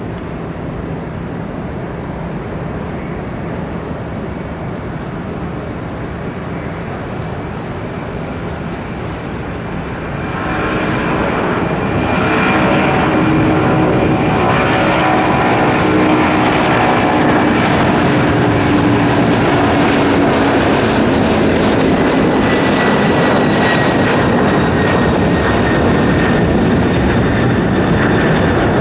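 Jet engines of a McDonnell Douglas MD-11 trijet freighter at takeoff power, a steady jet rumble that grows louder about ten seconds in and stays loud, with a faint high fan whine.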